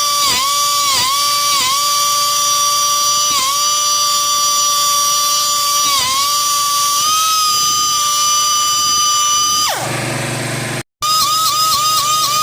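High-pitched whine of a DIY tool post grinder spinning on a lathe. Its pitch sags briefly each time the wheel bites into the TIG-welded balancer, and near the end it winds down before a similar whine picks up again with a quick regular pulse.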